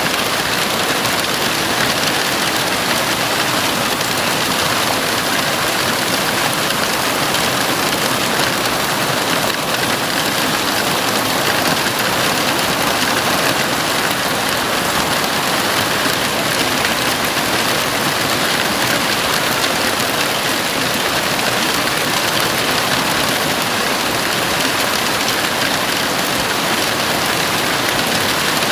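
Heavy rain falling steadily on the roof of a house, a dense, even hiss with no let-up or thunder.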